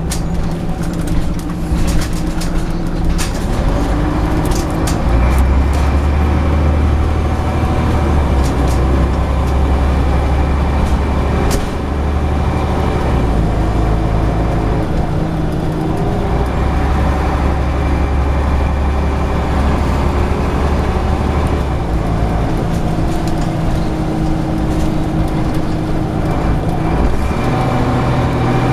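Scania CN94UB Omnicity bus's 9-litre Scania diesel engine running under way, its deep drone stepping up and dropping back several times as it accelerates and eases off. Sharp clicks and rattles come in the first dozen seconds.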